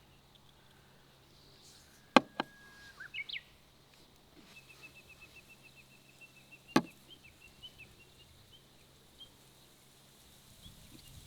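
Wild birds singing: a short whistle and a few chirps, then a fast trill of high chirps lasting several seconds. Three sharp clicks stand out as the loudest sounds, two close together about 2 s in and one near 7 s.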